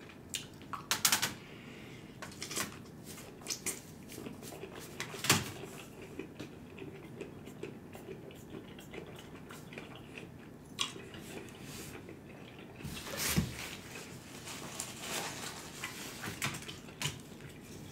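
Close-miked chewing of a mouthful of stir-fried noodles: scattered soft, wet mouth clicks and smacks, with a louder cluster about two-thirds of the way through.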